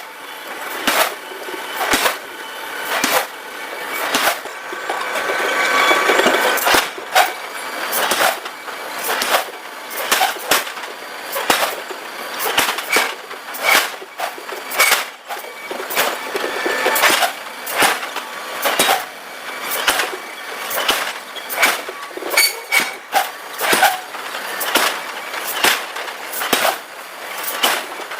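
Repeated hammer blows on red-hot steel on an anvil, about one or two a second at an uneven pace, with metallic ringing after some strikes. A stretch of steady noise, the loudest part, comes around five to seven seconds in.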